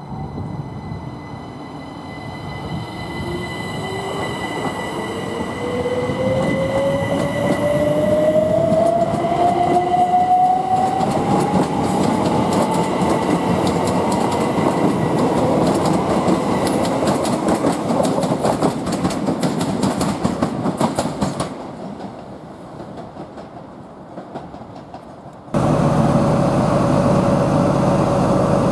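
Class 377 electric multiple unit pulling through the station: the whine of its traction motors rises steadily in pitch over about ten seconds while wheel-on-rail noise builds as the carriages pass, then fades. Near the end the sound switches abruptly to a Class 43 HST diesel power car idling with a steady hum.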